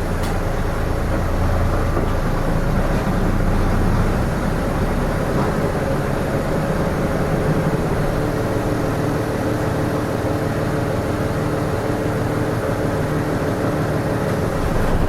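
Interior running sound of a Hino Rainbow RM (KK-RM252GSN) city bus at low speed. A heavy low rumble eases after about four seconds into a steadier engine hum.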